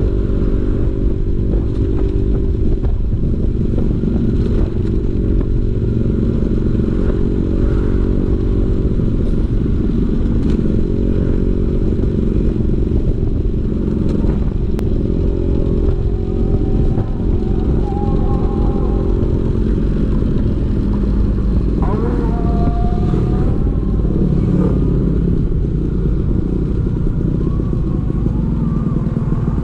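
Vespa PX 150's two-stroke single-cylinder engine running through a DRC Victory racing exhaust. The exhaust note runs steadily, with its pitch shifting up and down now and then.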